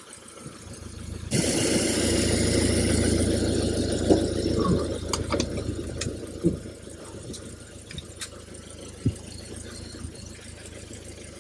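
1972 Buick Riviera's 455 V8 fires about a second in and runs loudly for several seconds, then settles to a quieter steady idle. One exhaust piece is left off, so the exhaust is partly open.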